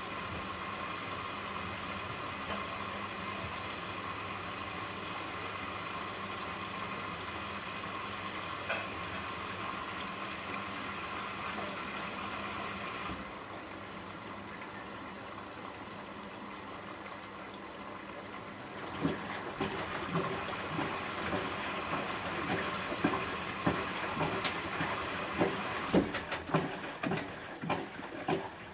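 Bosch WAN28220FF front-loading washing machine on a synthetics 40 °C cycle: a steady rush of water running in, with a faint hum, which eases a little about halfway through. From about two-thirds in come irregular soft knocks and splashes of the wet load in the drum.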